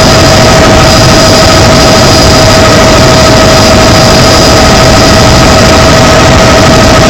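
Helicopter engine and rotor running steadily in flight: a very loud, even noise with a steady high whine over it.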